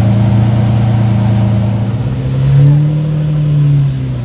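Lamborghini Murciélago V12 running steadily as the car moves off. Its pitch rises about two and a half seconds in as the throttle opens a little, holds for about a second and a half, and eases back just before the end.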